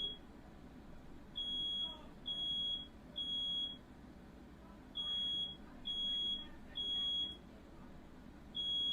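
Smoke alarm sounding in the three-beep fire-alarm pattern: three short high beeps, a pause, then three more, with a fourth group starting near the end. It is set off by smoke from a firework fire in the room.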